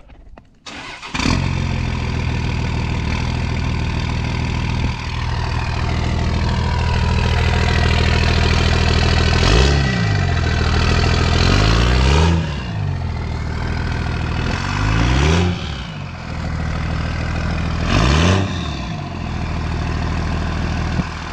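Dodge 24-valve Cummins 5.9 L inline-six turbodiesel starting about a second in, then idling steadily. In the second half it is blipped four times, each rev rising quickly and dropping back to idle, on its factory exhaust.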